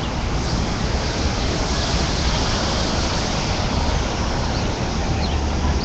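Steady wash of city street noise, with wind rumbling on the microphone.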